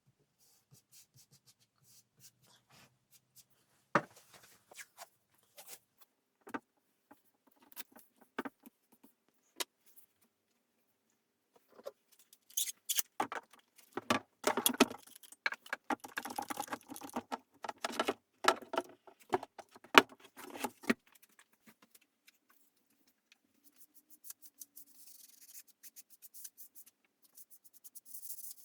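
Workshop handling sounds from restoration work: scattered clicks and knocks, then a busy stretch of clattering and rattling in the middle, then a faint scraping near the end.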